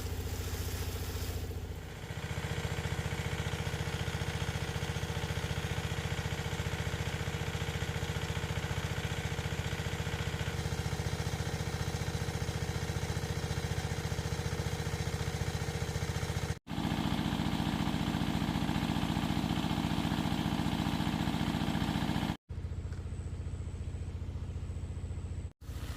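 A small engine running steadily, in several clips that cut off abruptly and change in pitch and level at each cut.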